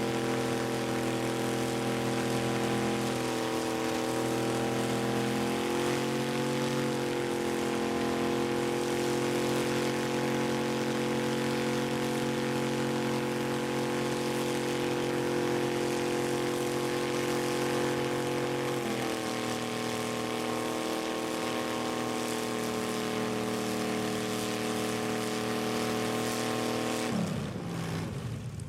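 An engine running steadily, its pitch shifting up and down a few times, then winding down near the end.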